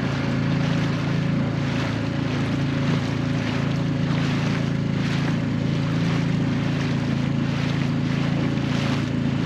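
Small outboard motor running steadily at a constant speed, with water rushing past the hull and wind on the microphone.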